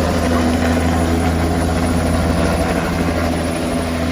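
Bell 505 helicopter's turbine engine and rotor running steadily during takeoff: a loud low hum with steady tones above it, getting slightly quieter near the end.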